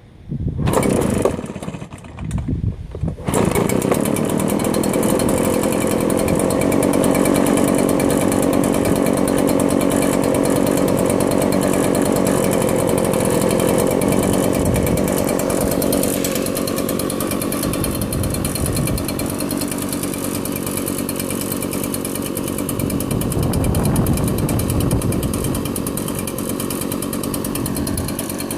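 Echo PB-770H backpack leaf blower's two-stroke engine cold-starting: it fires in two short bursts, catches about three seconds in, and then runs steadily.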